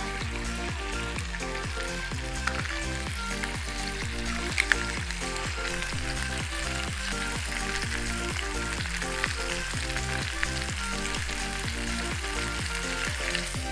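Thick-cut bacon and eggs sizzling and spitting in a hot River Light iron frying pan, with a sharp pop now and then.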